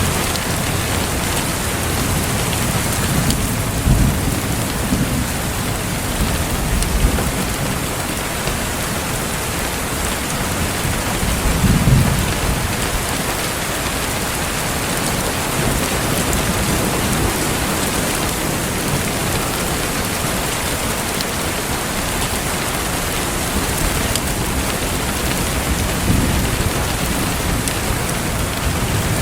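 Steady rain falling, a constant even hiss, with low rumbles of distant thunder swelling up a few times.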